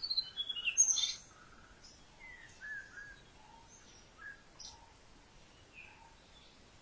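Wild birds chirping and calling: a loud run of quick chirps falling in pitch in the first second, then scattered softer chirps and short notes from more than one bird.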